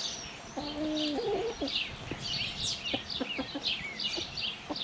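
Chickens calling and clucking, with many short high chirps and a short, lower pitched call about a second in.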